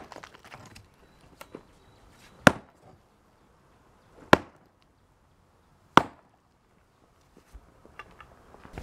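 Sledgehammer striking a concrete slab: four heavy blows about two seconds apart, breaking up the cracked concrete.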